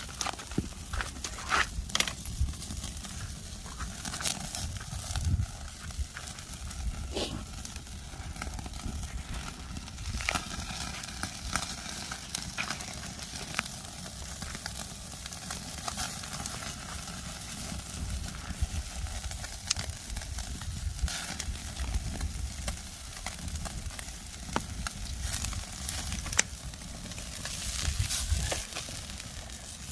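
Semi-dried sea bass sizzling over a wood fire, its dripping fat spitting, with scattered sharp crackles and pops throughout.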